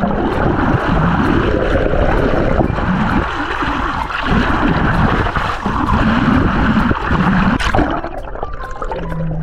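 Water rushing and splashing loudly close to the microphone, a steady churning noise.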